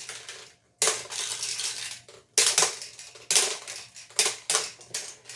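Small plastic toys clattering and rattling in a string of sharp, irregular bursts, about half a dozen, several coming close together in the second half.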